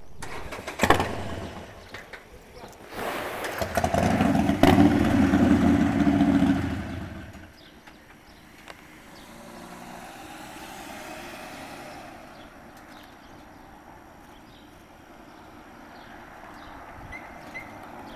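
A motor vehicle's engine runs loud and close for about four seconds, starting a few seconds in, then cuts off sharply. A few knocks come before it.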